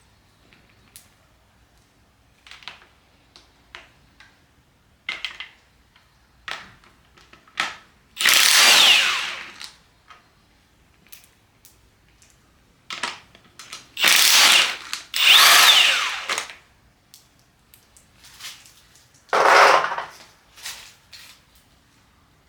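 Impact wrench running in about four short bursts, each a second or two long with its motor pitch sliding, spinning off the 14 mm connecting rod cap fasteners of a Nissan VG30DETT V6. Small clicks and knocks come between the bursts.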